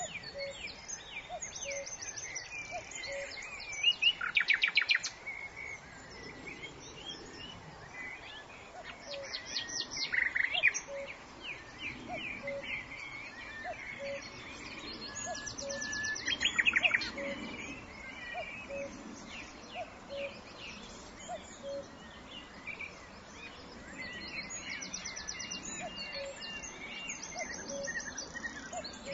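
Several birds singing and calling, with loud rapid trills about four, ten and seventeen seconds in. Underneath is a faint, evenly repeated low pip about once a second.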